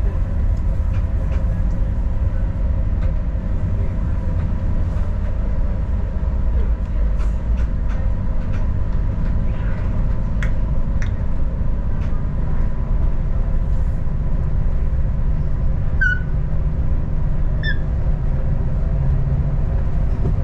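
Adelaide Metro suburban diesel railcar running, heard from on board: a steady low rumble with scattered light clicks. Near the end come two short, high chirps about a second and a half apart.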